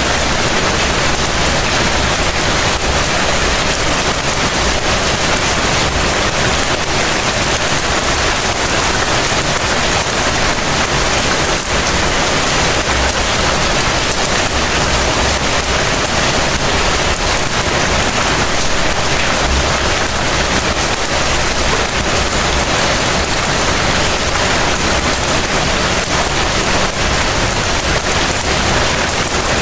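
Heavy rain falling steadily, a dense, even hiss of rain with no letup.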